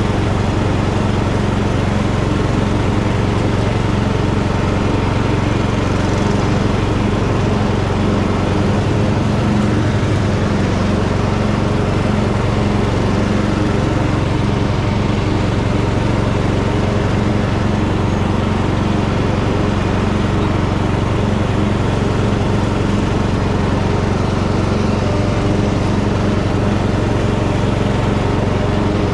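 Tractor engine running at a steady speed, with no change in pitch or loudness.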